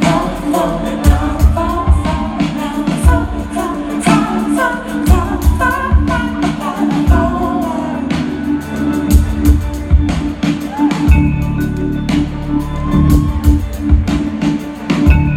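A live soul-rock band playing, with a woman's lead voice singing over drums, bass and sustained chord tones. The singing is strongest in the first half and eases off in the second, while the drums keep a steady beat.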